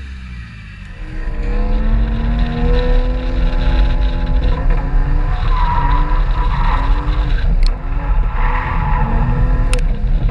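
Car engine on a drift track revving up from about a second in, its pitch rising and falling again and again with throttle and gear changes, with tyres squealing in the second half. Wind rumbles on the outside-mounted microphone.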